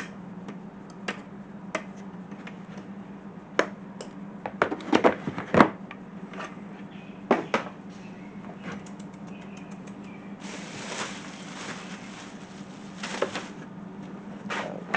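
Scattered clicks and knocks of hands and tools working on a truck's plastic air intake parts, over a steady low hum. About ten seconds in, a rustling hiss runs for around three seconds.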